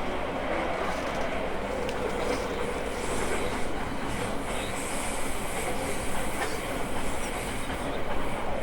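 Onboard running noise of an E217 series electric train: a steady rumble of wheels on rail with occasional rail-joint clacks.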